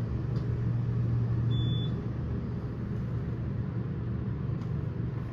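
Passenger elevator car travelling between floors: a steady low hum and rumble from the moving cab, a little stronger in the first two seconds. A brief high beep sounds about one and a half seconds in.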